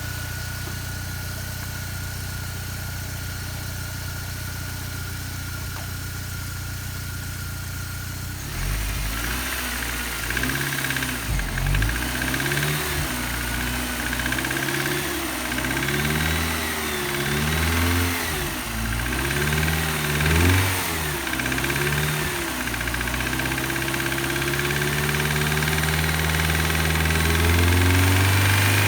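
BMW M43TU four-cylinder petrol engine idling steadily, then revved up and down repeatedly from about eight seconds in, and held at higher revs near the end. It is revved without load, where the owner says it seems not to knock; the knock he traces to cylinder 3 comes only under load, and he wonders whether it is a rod bearing shell or the piston pin.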